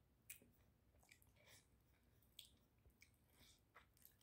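Near silence with faint, scattered mouth clicks of someone chewing food.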